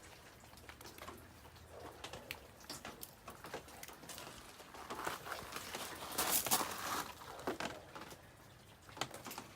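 Rain pattering steadily, with scattered small clicks and knocks, and a louder stretch of rustling and knocking about five to seven seconds in.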